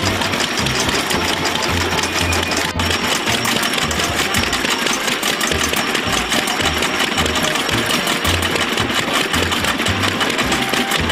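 Vintage engine running with a fast mechanical clatter and an uneven low beat.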